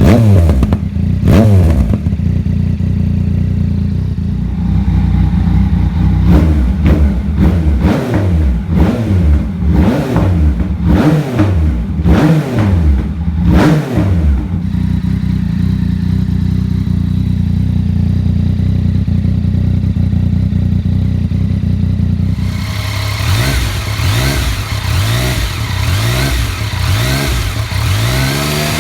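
2018 Yamaha MT-09's three-cylinder engine through an M4 RM1 full carbon exhaust, revved over and over and dropping back each time, then held steady for several seconds while it warms up. About 22 seconds in the sound changes abruptly to a brighter, higher running with quicker rises and falls.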